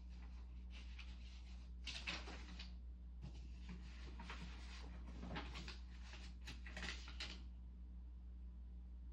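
Faint clicking and scraping handling noises in irregular bursts over a steady low electrical hum.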